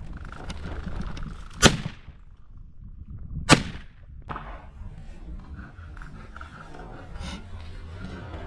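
Shotgun fired twice at flushing California quail, two sharp shots about two seconds apart, each with a short echo.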